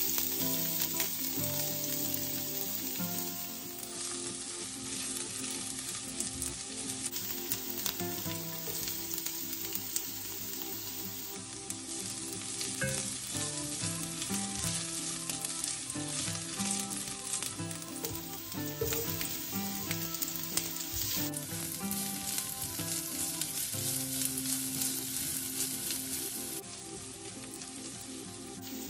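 Chopped garlic, ginger and onion sizzling steadily in hot olive oil in an enamelled cast-iron pot, stirred now and then with a silicone spatula. Soft background music plays underneath.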